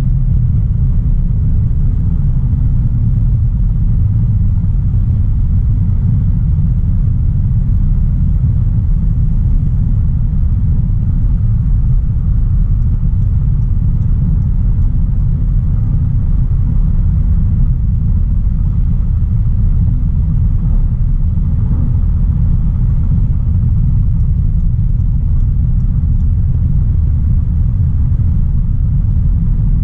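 A 2016 Audi A3 Sportback 1.4 TFSI on the move at a steady pace: its turbocharged four-cylinder petrol engine and the tyres and road make a steady low rumble, with no revving up or down.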